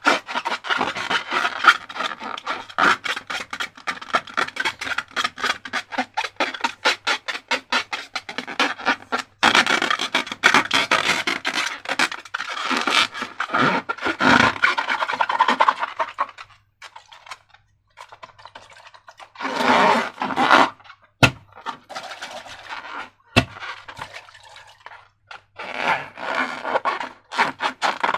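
Sticky slime being worked and squished by hand, making rapid crackling clicks and scrapes in long runs, then shorter bursts with pauses and two sharp single clicks.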